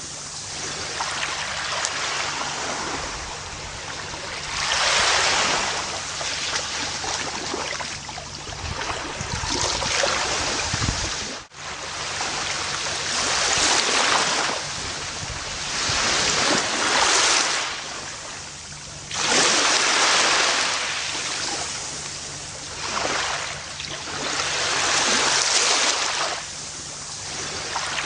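Gentle ocean waves breaking and washing up a beach, swelling and fading every three to five seconds. The sound drops out for an instant about eleven seconds in.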